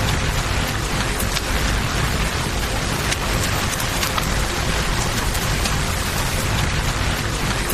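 Steady rain hiss over flowing river water, with a low rumble underneath and scattered sharp crackles and pops from a campfire.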